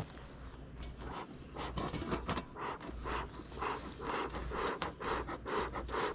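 Beekeeper's smoker bellows pumped over and over, a breathy puff of air about twice a second. The smoker has gone out.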